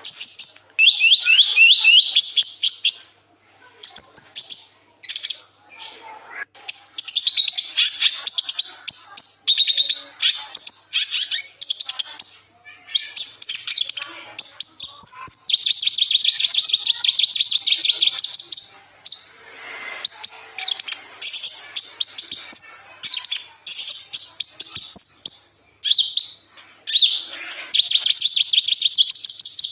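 Song of a sunbird kept as a songbird (the 'kolibri ninja' of Indonesian bird keepers): long runs of rapid, high trilled notes and twittering phrases, with short pauses between phrases.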